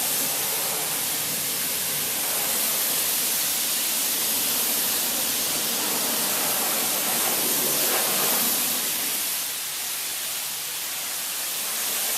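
Self-service car wash high-pressure lance spraying water onto a car, a steady loud hiss that drops slightly a few seconds before the end.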